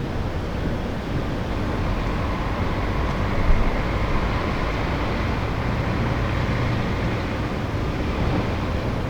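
Steady outdoor background rumble, mostly low, with a faint steady hum partway through; no fireworks bangs yet.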